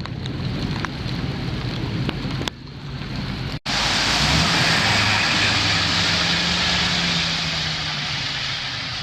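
Heavy rain pouring down, with scattered sharp drop impacts at first. After a sudden cut partway through, the rain is louder and steady, with a low hum underneath.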